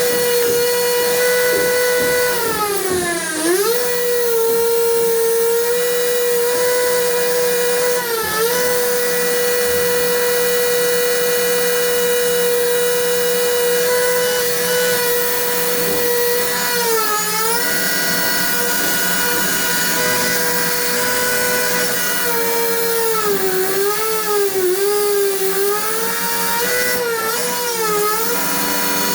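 Power tool motor running at a steady high whine, its pitch sagging briefly as it is loaded: once early, again twice more, then several times in quick succession near the end.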